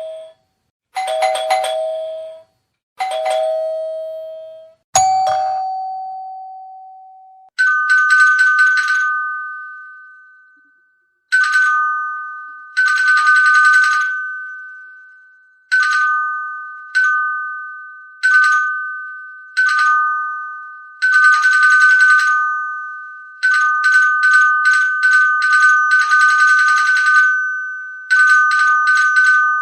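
Doorbell chime ringing ding-dong over and over: first a lower two-note chime three times and a single held note, then a higher two-note chime pressed repeatedly, sometimes in quick runs, each note ringing out and fading.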